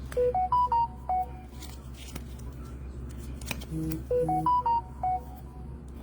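An electronic notification chime: a quick little tune of clean beeps stepping up and back down, heard just after the start and again about four seconds in, with a few light clicks between.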